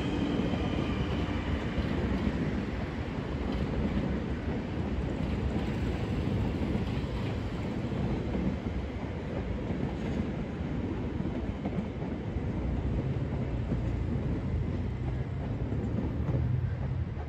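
Transilien electric commuter train running over the tracks, a steady rumble of wheels with clattering over the rails. The higher clatter fades after the first few seconds as the train draws away, and a low rumble swells near the end.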